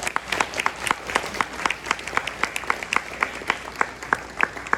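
Audience applauding, with separate hand claps standing out clearly rather than blending into a steady roar.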